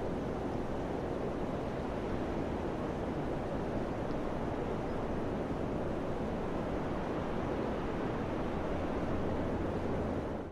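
Wind blowing steadily, a dense, even rushing with most of its weight low, which dips out for an instant at the very end.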